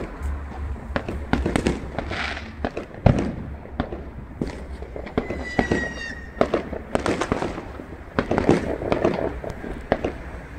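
Fireworks and firecrackers going off all around: repeated bangs and crackles, the loudest bang about three seconds in. About halfway through, a whistling tone falls slightly for about a second.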